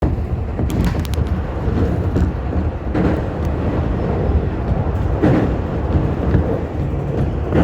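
Tobu Tojo Line train running over the Oppe River bridge: a steady, loud low rumble with a few sharp wheel clicks.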